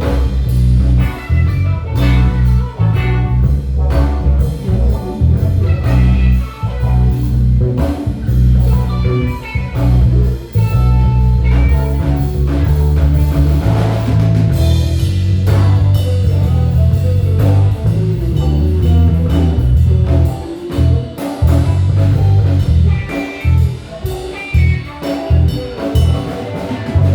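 Live band playing a blues-jazz instrumental: electric guitar over bass, drum kit and keys, with a heavy bass line. Near the end the band plays short, clipped hits with brief gaps between them.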